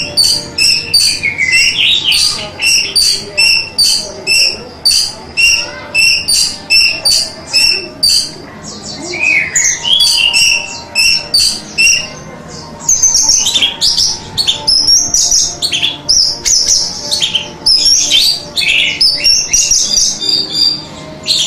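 Orange-headed thrush (anis merah) singing: a string of short, repeated high notes about two a second, then from about halfway a faster, more varied warbling run of high notes.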